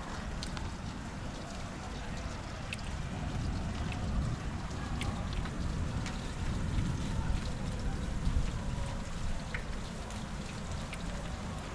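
Rain falling during a thunderstorm, with individual drops ticking sharply at scattered moments over a steady low rumble and a light hiss.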